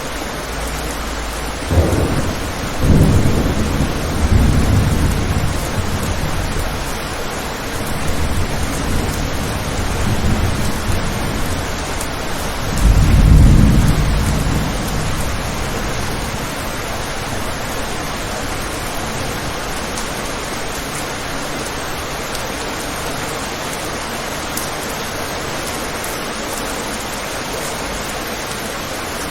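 Steady rain falling on a window, with rolls of thunder starting about two seconds in; the loudest rumble comes about halfway through, then dies away, leaving only the rain.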